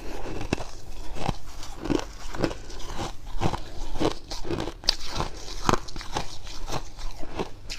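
Fluffy freezer frost being bitten and chewed close to the microphone: a steady run of dry crunches, about two a second.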